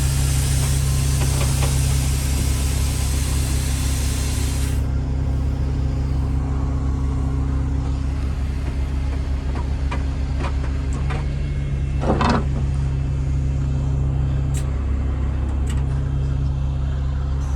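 Heavy diesel engine running steadily, with a hiss that cuts off about five seconds in and a short burst of noise around twelve seconds.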